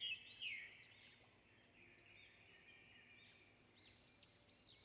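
Faint birdsong: short high chirps in quick succession, a cluster in the first second and more near the end, over a quiet background.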